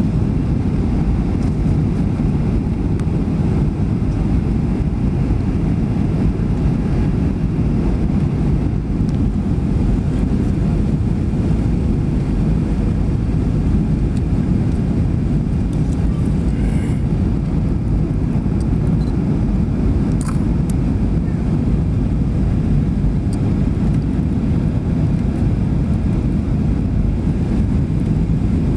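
Steady low rumble of an airliner's engines and rushing air, heard inside the passenger cabin as the plane descends toward landing.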